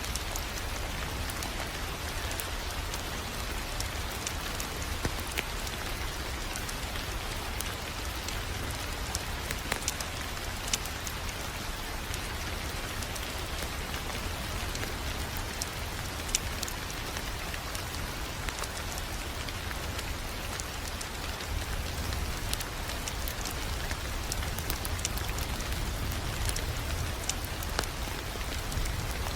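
Fire crackling in a fireplace: a steady hiss with scattered sharp pops and snaps over a low rumble.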